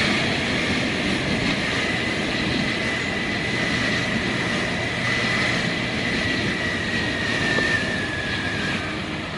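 Steady running noise of a moving road vehicle, with a thin high whine that slowly drops a little in pitch.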